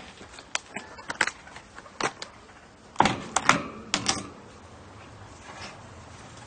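Irregular sharp taps and knocks of hard things on a hard surface, about ten over four seconds, bunched most heavily around three seconds in.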